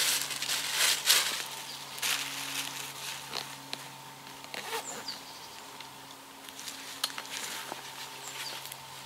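Hot fire-ring stones and embers of a doused campfire hissing and crackling in uneven bursts with sharp ticks, strongest in the first few seconds. A faint steady low hum runs underneath.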